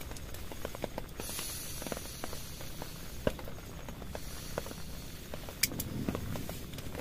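Rain on a tent: a steady hiss with scattered, irregular taps of single drops hitting the fabric.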